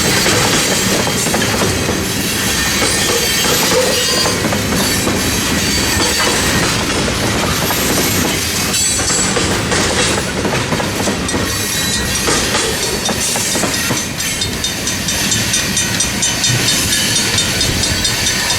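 Freight train rolling through a grade crossing, its wheels clacking over the rail joints in a steady run.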